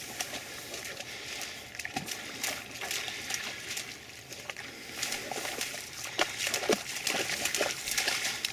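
Rustling, crackling and sloshing of movement through tall, wet marsh vegetation and shallow water, with irregular small splashes.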